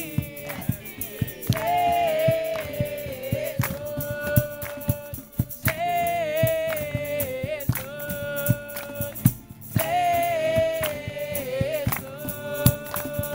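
Worship music: long held sung notes over a steady rhythm of sharp percussion hits.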